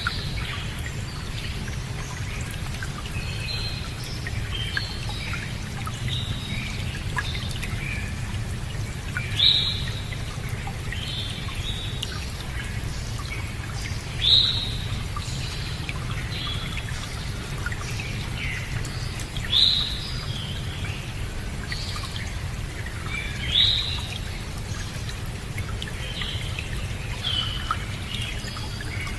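Wild birds singing, one repeating a short, loud, high phrase about every four to five seconds with quieter calls between, over a steady low rush of running water.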